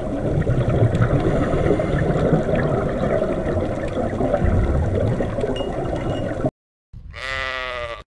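Steady, low, rushing underwater ambience that cuts off abruptly about six and a half seconds in, followed near the end by a single bleat from a goat-like animal.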